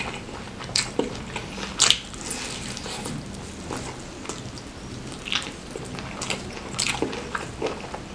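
Close-miked chewing of sauce-covered fried chicken: wet mouth sounds and lip smacks with irregular sharp clicks, the loudest about one and two seconds in.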